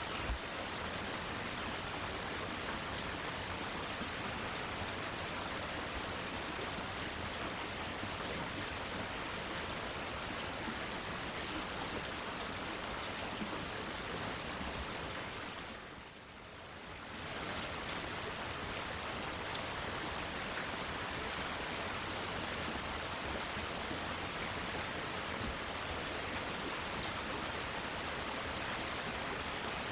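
Steady rain falling, an even hiss with faint scattered drop ticks. It fades down briefly about halfway through and comes back to the same level.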